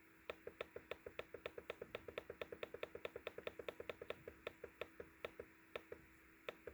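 A rapid run of light, evenly spaced clicks, about eight a second, that slows and thins out after about four seconds into a few scattered clicks.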